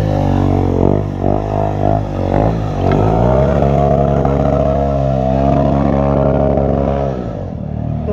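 Stunt motorcycle engine revving, with several quick rises and falls in pitch, then held at high revs for about four seconds before dropping off near the end.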